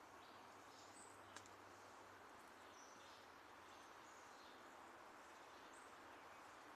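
Small birds chirping faintly, a scattering of short high chirps over a steady hiss, with one sharp click about a second and a half in.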